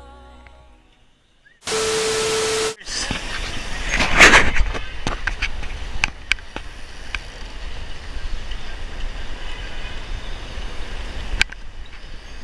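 Wind rushing over the microphone and road rumble from a bicycle riding along, with scattered sharp clicks and knocks and a louder swell about four seconds in. Just before it, a second-long steady tone over a hiss, cut off abruptly.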